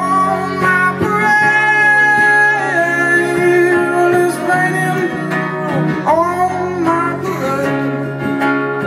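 Acoustic guitar playing, with sung notes held over it.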